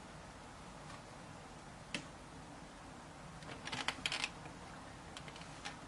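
Light clicks and rattling from handling the headset's clamp kit as it is fitted onto a motorcycle helmet: a single click about two seconds in, then a quick run of clicks about a second and a half later.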